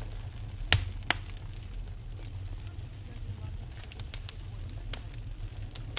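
Wood fire burning in a fireplace, a low steady rumble with two sharp pops about a second in and a few lighter crackles later.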